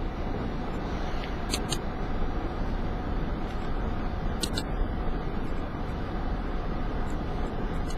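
Steady road and engine noise inside a moving vehicle, with a few faint clicks.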